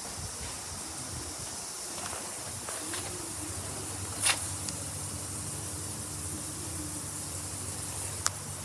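Suzuki GSX1300R Hayabusa's inline-four engine idling steadily, with a few sharp clicks, the loudest about four seconds in.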